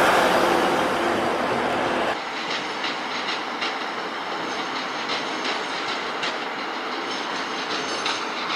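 Train running through a station, its wheels clicking over rail joints in an uneven run of clacks. The louder running noise at the start drops away about two seconds in.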